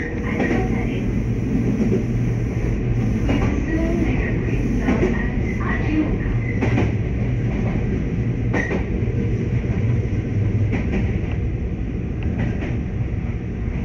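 Electric train running along the track, heard from inside the front cab: a steady rumble and low hum, with irregular clicks and knocks from the wheels on the rails.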